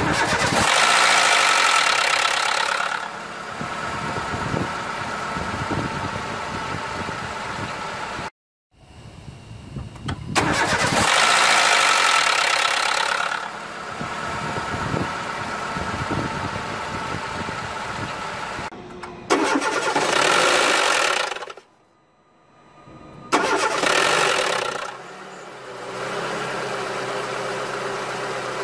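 Renault Mégane petrol engine cold-starting, three times: each time it catches, runs high and loud for two to three seconds, then settles to a steady idle. The owner is chasing a strange noise heard at cold start.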